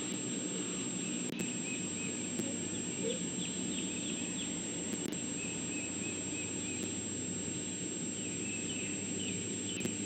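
Outdoor ambience: a steady background hiss with a low hum and a thin high whine, while small birds chirp in short quick runs several times.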